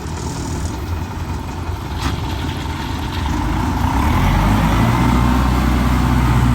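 Combine harvester's diesel engine running, growing louder and heavier about three to four seconds in.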